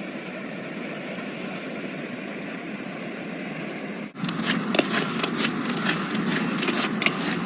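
Steady outdoor noise. About four seconds in it changes abruptly to louder noise with many crackles and clicks.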